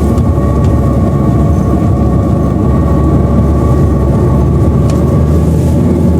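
Chery Arrizo 5 car engine running with the accelerator pressed, carrying a steady whining '呜呜' tone over the engine rumble. The mechanic traces the whine to a failing air-conditioning compressor bearing in the belt drive, not the CVT transmission.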